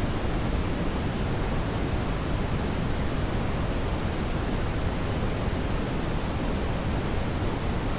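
Brown noise: a steady, even rushing hiss, strongest in the deep low end and thinning toward the top.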